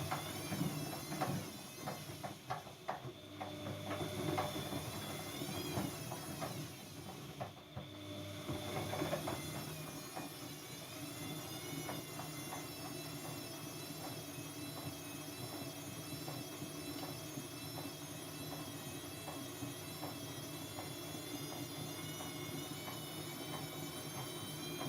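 Siemens Siwamat C10 washing machine running, its motor giving a steady whine that wavers in pitch. For the first several seconds clicks and knocks come through; the machine briefly drops off about eight seconds in, then runs on evenly.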